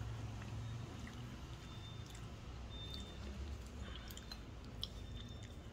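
Faint chewing of a mouthful of fried chicken, with small clicks over a low steady hum.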